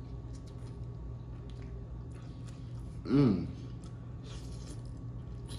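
Close-up wet chewing and small mouth clicks of someone eating ranch-covered chicken wings, with one short voiced 'mm' of enjoyment about three seconds in.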